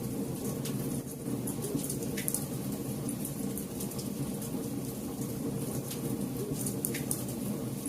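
Campfire burning: a steady low rush of flames with sharp crackles and pops of burning wood scattered through, a few of them louder snaps.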